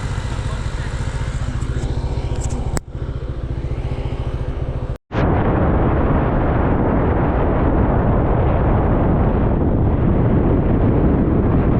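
Motorbike engine running steadily. About five seconds in there is an abrupt cut to wind rushing hard over the microphone, with the engine underneath, as from riding.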